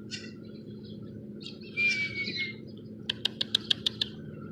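Small birds calling during a squabble: a short harsh call with a falling whistle about two seconds in, then a rapid run of about seven sharp chip notes.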